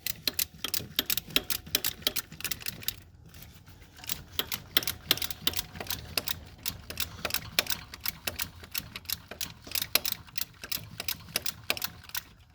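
Hand ratchet wrench clicking quickly as it backs out a transmission-to-engine bolt, several clicks a second with a brief pause about three seconds in.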